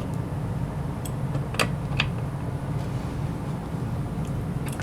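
A few light, sharp clicks and clinks, the strongest two about a second and a half to two seconds in, as the dishwasher's water supply line fitting is tightened onto the inlet valve, over a steady low hum.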